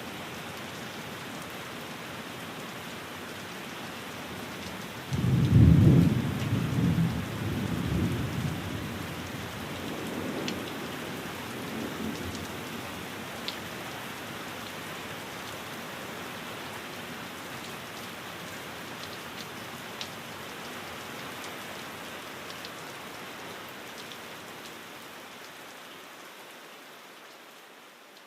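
Steady rain, with a thunder rumble that breaks about five seconds in and rolls on for a few seconds before dying away. The whole sound fades out near the end.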